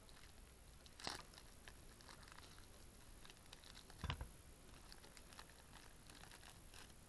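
Faint rustling and small clicks of gear being handled, with a sharp click about a second in and a dull knock about four seconds in.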